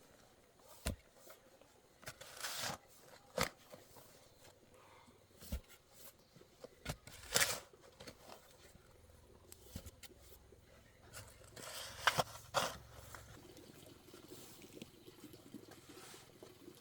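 Irregular knocks and clicks with a few short scraping, crunching noises, the loudest about a third of the way in and again about three quarters of the way in.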